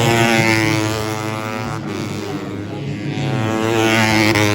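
Race-tuned 150cc four-stroke underbone motorcycles running at high revs on track, engine note swelling as bikes pass near the start and again about four seconds in.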